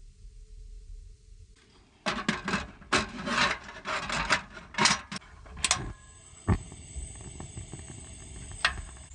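A quick run of rubbing and scraping strokes for a few seconds, then two sharp knocks a couple of seconds apart.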